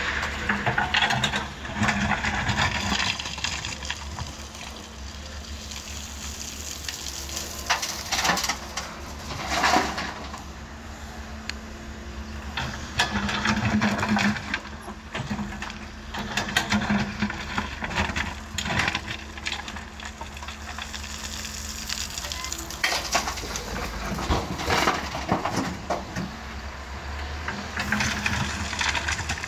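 Doosan DX140 excavator's diesel engine running steadily, its note rising every few seconds under hydraulic load. Repeated rushes of noise come as the bucket digs and tips its load into a dump truck.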